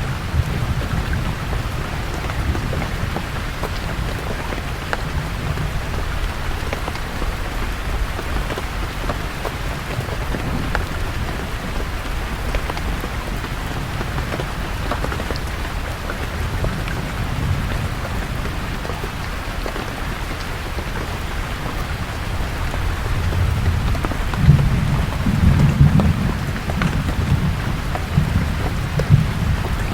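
Steady rain falling on forest leaves, with a low thunder rumble underneath that grows louder in the last several seconds.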